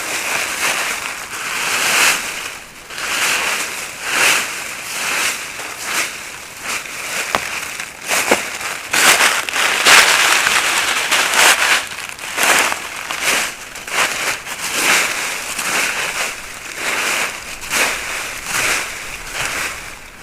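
Irregular crunching and rustling, a noisy burst about every half second to a second, loudest near the middle.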